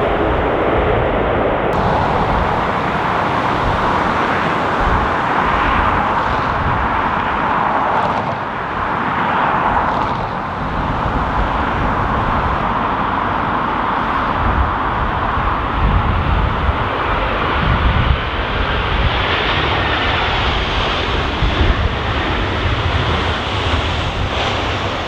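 Jet engines of a Boeing 737-800 running steadily as it comes in to land, an even roar over a gusty low rumble of strong wind buffeting the microphone.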